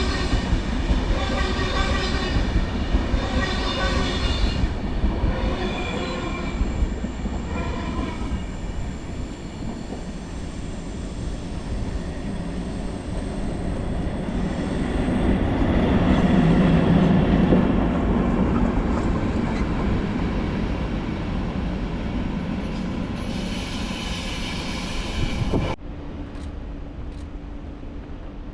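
Electric-hauled passenger train rolling through the station, with wheel and rail noise. For the first several seconds there are rhythmic pulses about once a second, then a swell of low rumble midway and a high hiss near the end. About 26 s in it cuts off suddenly to a quieter, steady hum.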